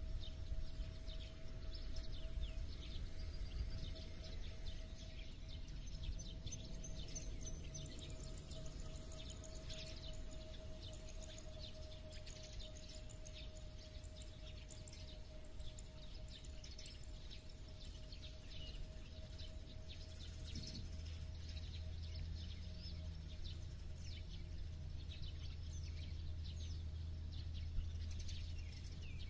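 Countryside birdsong: many small birds chirping and twittering in quick short calls throughout, over a steady low background rumble that grows a little stronger about two thirds of the way in.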